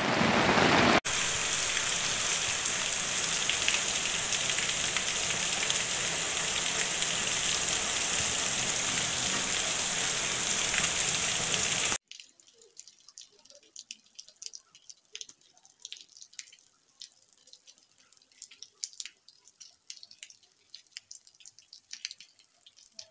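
Heavy rain falling, a steady dense hiss. About twelve seconds in it gives way to a much fainter scattering of individual raindrops and drips.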